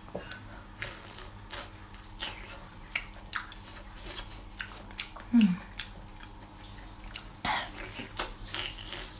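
A person eating seafood: chewing and biting, heard as scattered wet clicks and smacks, with a brief hummed "mm" about halfway through.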